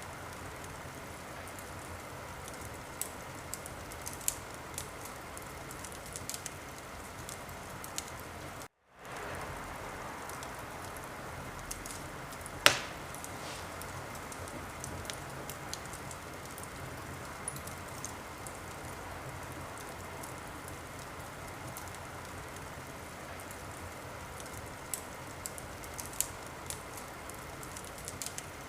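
Wood fire crackling: a steady soft hiss with scattered sharp pops and one much louder pop about thirteen seconds in. The sound cuts out for a moment about nine seconds in and fades back.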